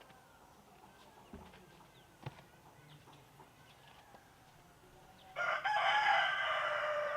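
A rooster crowing once, a single long crow starting about five seconds in, after a few faint knocks.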